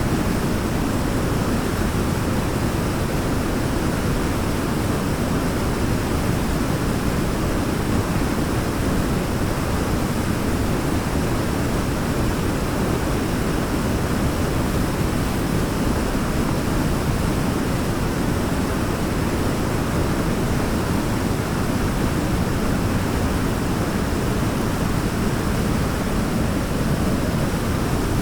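Waterfall rushing: a steady, even noise of falling water, heaviest in the low end, with no change throughout.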